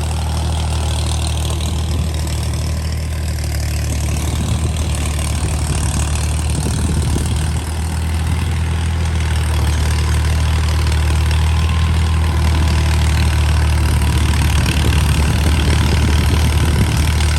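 Al-Ghazi 65 hp tractor's diesel engine running steadily while working a rotavator, a deep drone that grows a little louder about halfway through.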